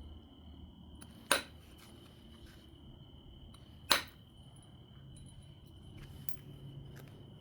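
Two sharp glassy clicks, about two and a half seconds apart, of flakes being knapped off an obsidian biface, with a few fainter ticks of stone on stone between them.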